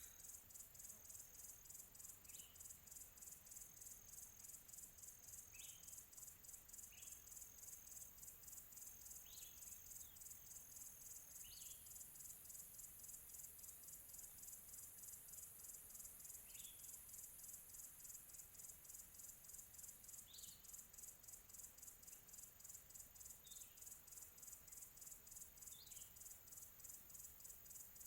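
Faint nature ambience: insects chirring high and steady in a fast even pulse. Over it a bird gives short single chirps, mostly falling in pitch, about every two to three seconds.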